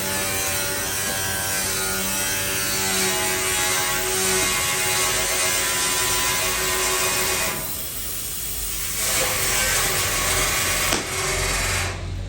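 Electric power tool working on car body sheet metal: a steady motor whine under a dense hiss, easing off briefly about eight seconds in and then picking up again.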